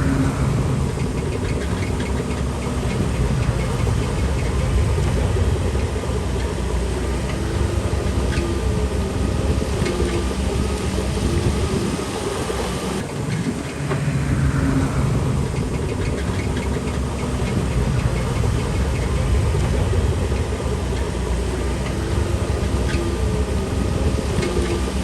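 Shantui DH17C3 Pro bulldozer's diesel engine running steadily, with scattered metallic clanks. A whine falls in pitch near the start and again about halfway through.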